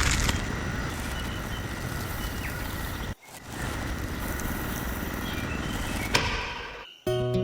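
Small motor-driven machine running steadily with a faint whine. It briefly drops out about three seconds in and fades away near the end.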